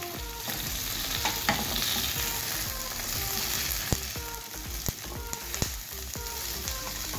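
Bell pepper pieces sizzling steadily in hot oil in a stainless steel pan while a wooden spatula stirs them, with a few sharp clicks of the spatula against the pan.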